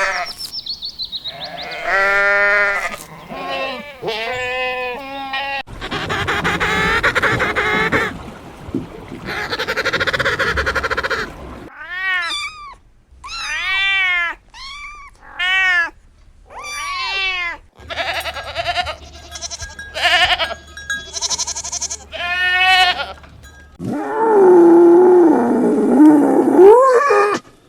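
Bleating livestock, a series of separate loud, wavering bleats with clear pitch, in several short segments that change abruptly.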